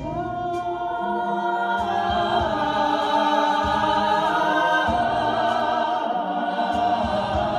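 A group of voices singing long held notes in harmony, the pitches wavering with vibrato.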